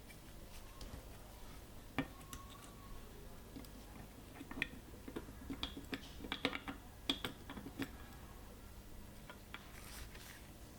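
Small, sharp mechanical clicks and taps from work on a vintage film camera: one sharp click about two seconds in, then a busy run of clicks in the middle.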